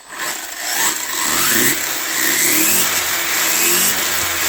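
Hobbypower 3650 3300KV brushless motor of a 1/14-scale RC monster truck revving on a 3S battery: a loud whine that starts abruptly and rises and falls in pitch as the throttle is worked.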